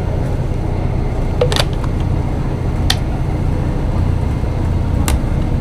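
A GWR Class 158 diesel multiple unit running along, heard from inside the carriage: a steady low rumble. A few sharp clicks sound at uneven intervals.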